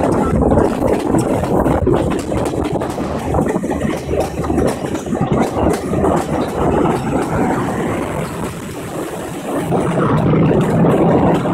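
Passenger train running, heard from inside a carriage by an open window: a loud, steady rumble of the wheels and carriages on the rails.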